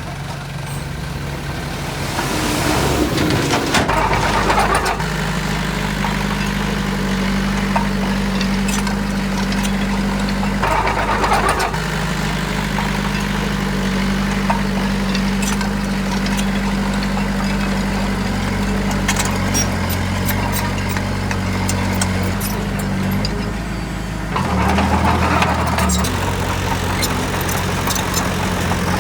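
Heavy diesel engine of earthmoving machinery running under load, its drone shifting in pitch several times. Louder surges come about two to five seconds in, around eleven seconds, and again near the end.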